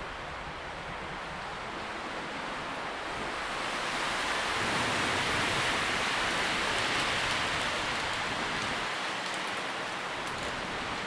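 Wind blowing through tree leaves, a steady rustling that swells into a stronger gust a few seconds in and then eases slightly.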